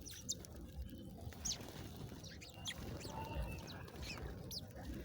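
Small birds chirping: short, high notes scattered irregularly, about eight or nine in five seconds, over a low steady rumble.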